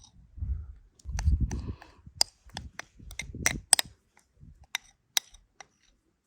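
Irregular sharp clicks and taps of a spoon against a bowl, with a few dull knocks in the first two seconds, as yeast and eggs are added for bread dough.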